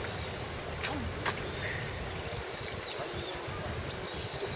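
A few short, high bird chirps, scattered and separate, over a steady background hum of outdoor ambience, with two sharp clicks about a second in.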